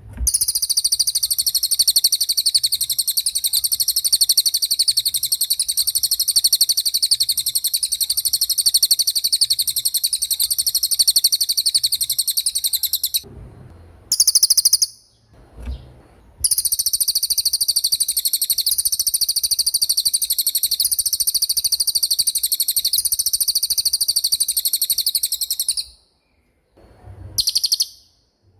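Small songbird singing a very fast, high-pitched rolling trill held for many seconds, then a short high note, then a second long trill and another short note. This is the kind of 'roll' and 'tembak' song used as masteran to tutor competition songbirds.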